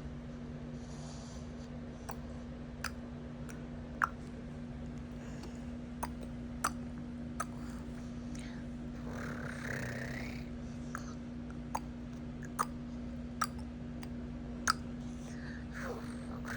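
A sleeping baby making noises: scattered sharp little clicks and smacks, and a squeaky vocal sound that rises and then falls about nine seconds in, with another beginning near the end. A steady low hum runs underneath.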